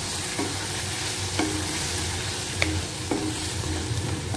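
Wooden spatula stirring a thick onion-tomato masala frying in a kadai, the sauce sizzling as it cooks down toward the oil separating. Several short knocks of the spatula against the pan, each with a brief ring.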